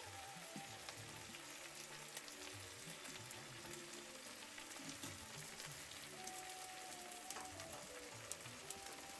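Food frying in a pan: a steady sizzling hiss with scattered small pops.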